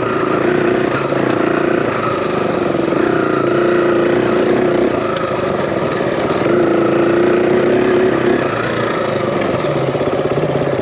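KTM 350 EXC-F single-cylinder four-stroke dirt bike engine running on a trail ride. Its pitch rises and falls as the throttle is opened and closed, under steady rushing noise.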